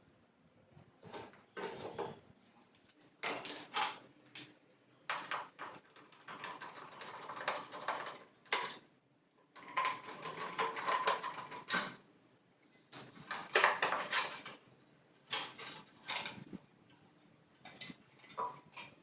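Irregular knocks, clicks and clatter of hard objects being handled and set down, in short bursts with pauses between.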